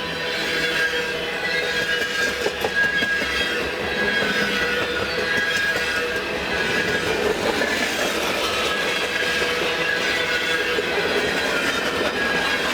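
Mixed freight train's cars rolling past, wheels clicking over rail joints, with a steady high wheel squeal running through it.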